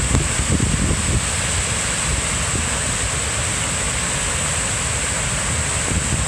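Floodwater from a swollen creek pouring over a road embankment, a steady rushing roar with no letup. The road base is acting as a dam, and the water is spilling across the road surface.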